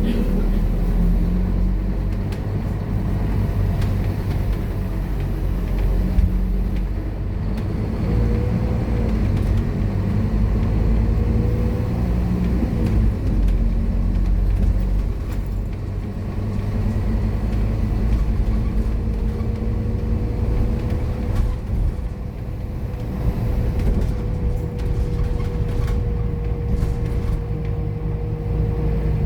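Scania K230UB bus's five-cylinder diesel engine running under way, a steady drone with road noise, and a thin whine that rises slightly about two-thirds of the way through and then holds.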